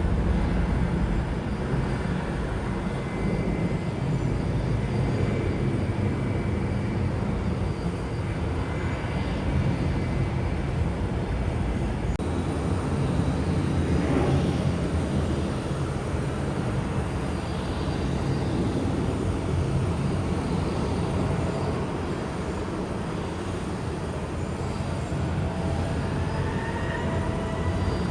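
Jet airliner's engines running with a steady rumble and a thin whine. Near the end the whine rises in pitch.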